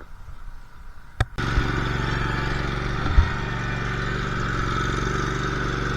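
An engine running steadily. It comes in suddenly about a second and a half in, after a quiet stretch with a single click.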